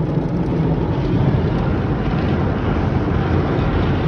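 Automatic car wash running over the car, heard from inside the cabin: a steady, even rumble and hiss of the machinery and water.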